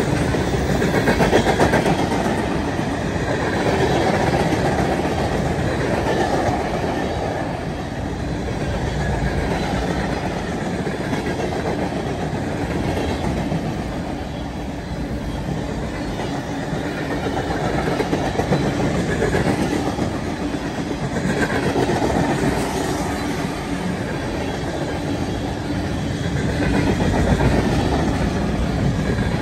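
Freight train passing, its cars rolling by steadily with wheels clicking and clattering on the rails as they cross onto a steel truss bridge.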